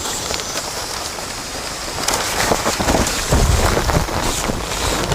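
Heavy rain falling and spattering on surfaces close to the microphone, a dense patter of drops, with a low rumble swelling a little past halfway.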